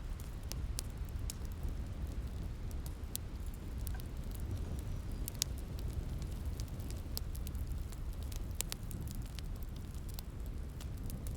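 Wood fire crackling, with scattered sharp pops every second or so, over a steady low rumble of rain.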